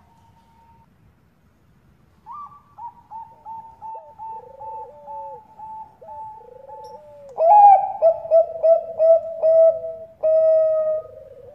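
Zebra doves (Thai-bred 'Bangkok' perkutut) cooing in rapid runs of short, even notes. Two birds at different pitches overlap, and a much louder run starts about seven seconds in.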